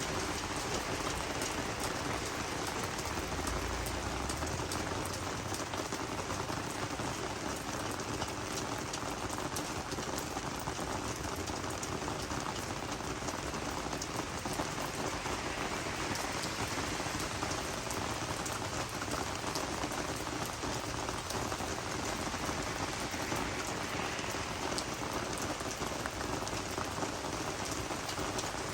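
Steady rain falling on garden vegetables and flowers: an even hiss with a dense patter of individual drops, unchanging throughout.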